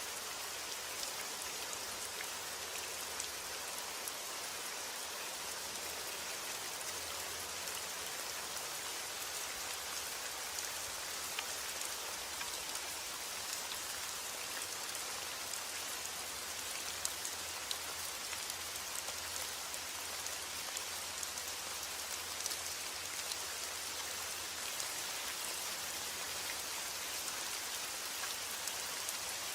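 Steady rain falling, with a dense hiss and the small ticks of individual drops striking a surface.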